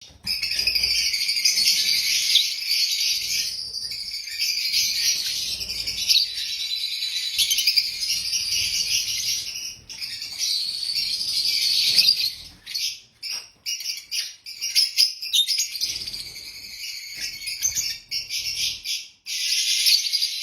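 Fischer's lovebirds chattering, a dense high-pitched twittering with short pauses here and there.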